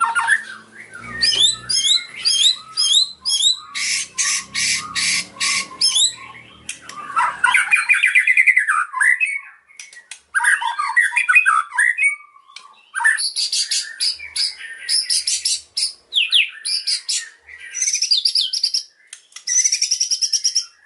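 White-rumped shama (murai batu) singing a loud, varied song: runs of rapid repeated notes, quick up-sweeping whistles and trills, in phrases broken by short pauses.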